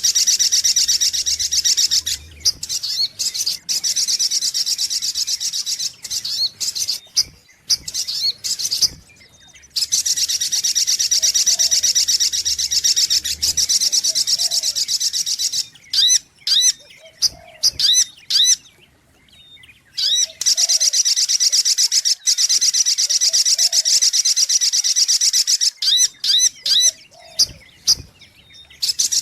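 Sogok ontong bird song: long, rapid, high-pitched trilling phrases lasting several seconds each, broken by short pauses and by runs of separate sharp chirps. This is the song used as a bird-catcher's lure call.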